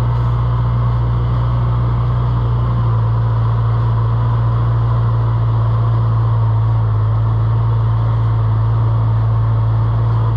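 Steady low drone of a running engine, unchanging in level.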